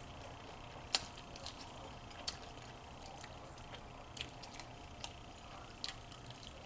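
Someone eating with a wet, open-mouthed chew: scattered lip smacks and mouth clicks, the sharpest about a second in, over a faint steady hum.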